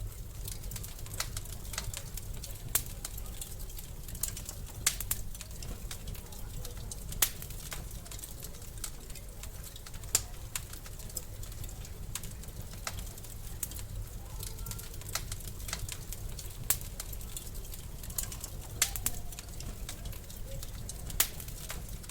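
Wood fire crackling in a fireplace: irregular sharp pops and snaps, a dozen or so louder than the rest, over a steady low rumble of the flames.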